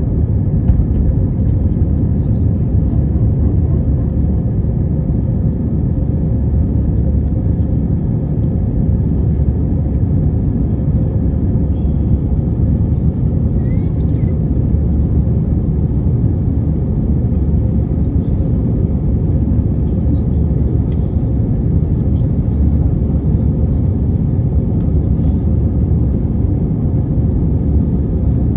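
Airbus A320 engine and airframe noise heard from inside the passenger cabin: a loud, steady low rumble with a faint steady hum above it.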